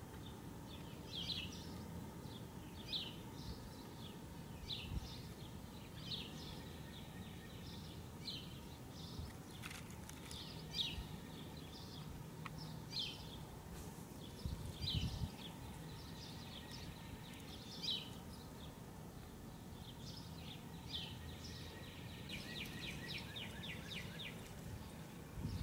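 A bird chirping repeatedly outdoors, short high calls every second or two, with a quick trill of rapid notes near the end, over a faint low background hum.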